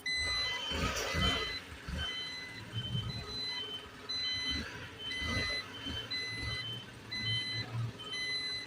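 Garbage truck reversing alarm beeping steadily, alternating between two pitches, over the low rumble of the truck's engine.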